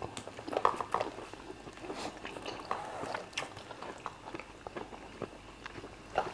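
Close-miked eating sounds: chewing and wet mouth sounds of fufu and chicken being eaten by hand, with scattered soft clicks and smacks, the loudest a little under a second in.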